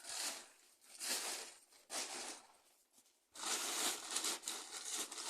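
Rustling and crinkling noise in short bursts, then a longer stretch of it from about three seconds in.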